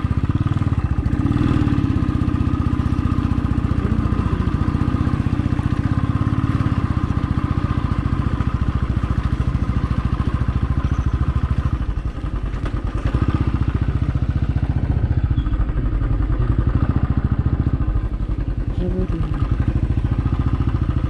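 Motorcycle engine running steadily under way, with a fast even pulse from its firing.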